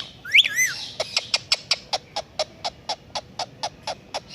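Indian ringneck parrot giving a short call that rises and falls, then a rapid run of sharp clicks, about six a second.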